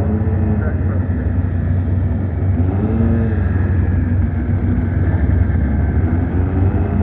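Car engines running with a heavy low rumble, their pitch rising and falling briefly about three times as the throttle is blipped.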